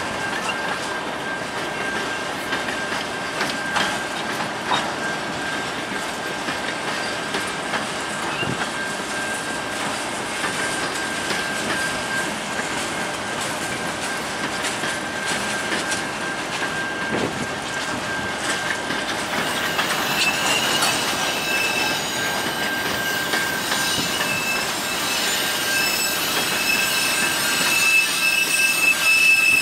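Covered hopper cars of a long freight grain train rolling steadily past, with continuous wheel-on-rail noise and a steady high-pitched wheel squeal. A second, higher squeal joins about two-thirds of the way in and grows louder near the end.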